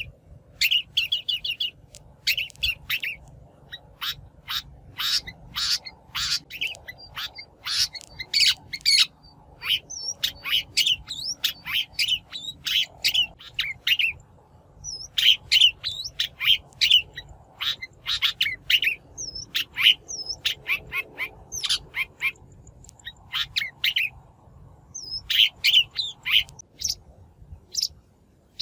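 Shrike calling: quick runs of short, harsh, scratchy chattering notes, with a few thin whistled notes mixed in.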